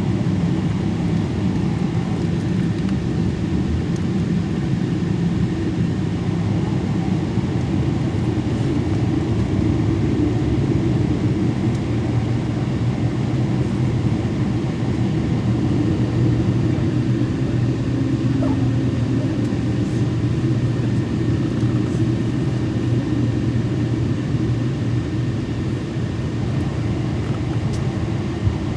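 Steady cabin noise of a Boeing 777 in flight: a constant low rumble of engines and airflow.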